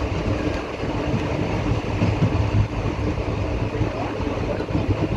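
Passenger train running along the line: a steady rumble of the coaches on the rails, even throughout.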